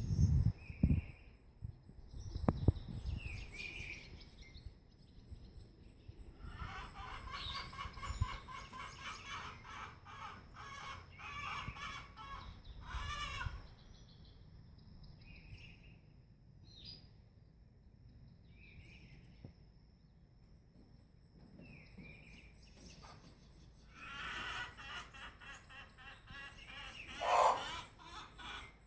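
Chickens calling in two long stretches, the second rising to a louder squawk near the end. Short single bird chirps come in between, and a couple of low thumps sound near the start.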